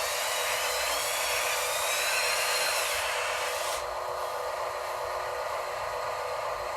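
Small electric motors and gearing of a radio-controlled construction model running, with a whine that rises in pitch over the first three seconds and drops away about four seconds in, under a steady buzz.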